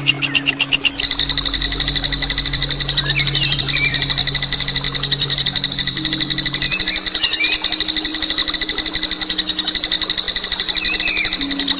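A songbird's harsh, rapid rolling trill, held without a break through the whole stretch and quickening about a second in, a long 'ngerol' burst of the kind used as masteran song for training competition birds. Faint chirps of other birds and a steady low hum sit behind it.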